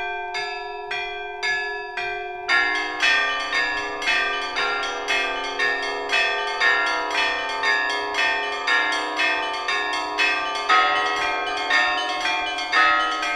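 Church bells ringing in a steady run of strikes, about two a second. A few bells sound at first, and more, lower bells join about two and a half seconds in, filling out the peal.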